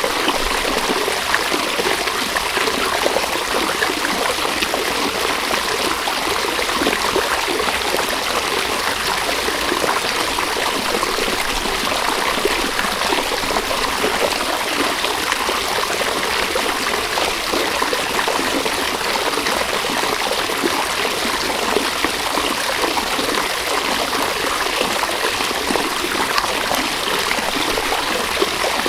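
River water running steadily over stones, a constant rushing with fine trickling and gurgling detail.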